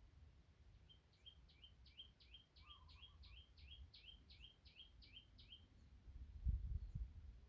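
A small bird singing a run of about a dozen quick, identical chirps, roughly two or three a second, faint over a low rumble. A few low thumps come near the end.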